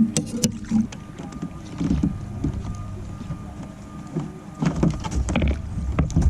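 Water slapping against a kayak hull and wind buffeting the microphone, with a few sharp knocks near the start and a cluster of louder splashes and rattles about five seconds in.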